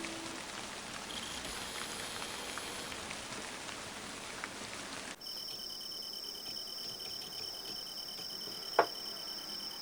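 Rain-like hiss for about five seconds, then an abrupt change to crickets trilling in a steady pulsing chorus. A single sharp click comes near the end.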